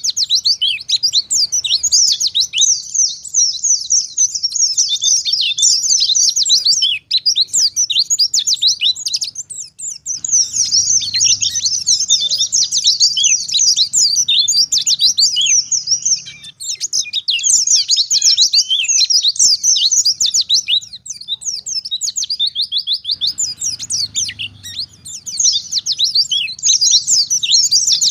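White-eye (pleci) singing a fast, nonstop run of high twittering chirps, broken by a few short pauses.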